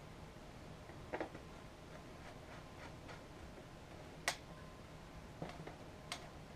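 Faint, scattered clicks and taps from a screwdriver and the plastic housing of an upright vacuum being screwed back together, with one sharper click a little past halfway.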